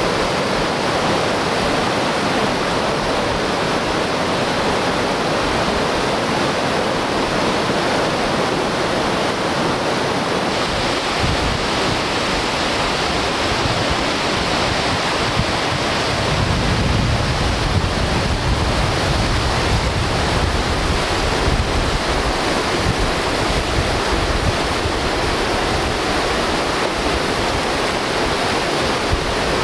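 Whitewater rapids rushing steadily, a loud, even roar of river water. About halfway through, a deeper low rumble swells for a few seconds.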